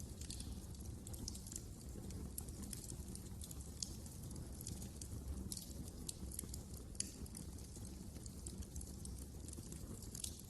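Fireplace fire crackling: frequent small irregular pops and snaps over a low steady rumble.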